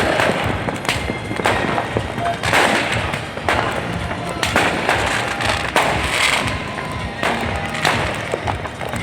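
Fireworks going off in a series, a sudden burst about every second, each one trailing off, with music playing underneath.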